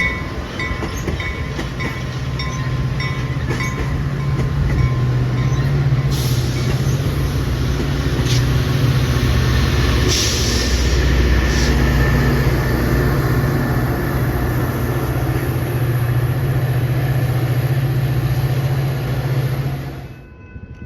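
A diesel train passes through the station with a steady low engine drone and wheel clatter over the rails. A crossing bell rings for the first few seconds. The sound cuts off suddenly near the end.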